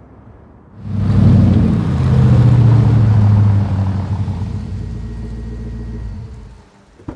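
An SUV's engine running as it rolls up and stops: it starts suddenly and is loud at first, then eases off and cuts out about six and a half seconds in. A short click near the end, as the door is opened.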